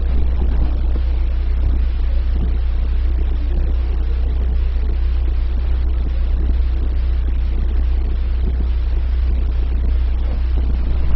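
Car on the move: a steady low rumble of engine and road noise with a hiss of tyres and wind.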